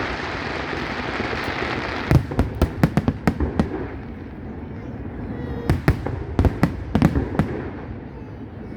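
Aerial fireworks going off: a steady hiss for the first two seconds, then a quick run of sharp bangs, and a second run of bangs about six seconds in.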